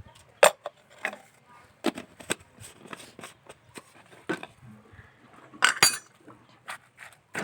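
Kitchen utensils clinking and knocking against dishes in irregular strikes, with a sharp knock about half a second in and a ringing clatter near the end.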